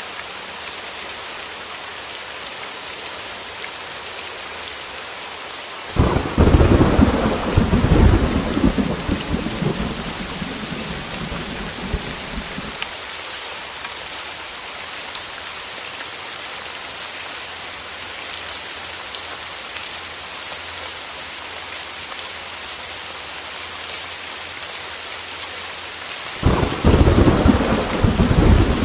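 Heavy rain falling steadily, with two claps of thunder: one about six seconds in that rumbles on for several seconds before fading, and another starting near the end.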